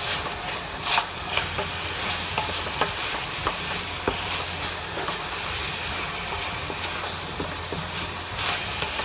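Chicken pieces sizzling in onion and ginger-garlic-chilli paste in a stainless steel kadhai while being stirred and turned with a spatula: the bhuna frying stage. A steady sizzle runs under scattered scrapes and knocks of the spatula on the pan, the loudest about a second in.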